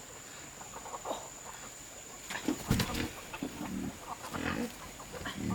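Farm animals calling in short low grunts, mixed with a couple of sharp knocks a little past the middle.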